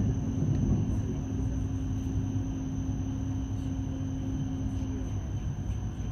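Hokuriku Shinkansen train running, heard from inside the passenger cabin: a steady low rumble from the running gear with a constant hum. A steady tone stops about five seconds in.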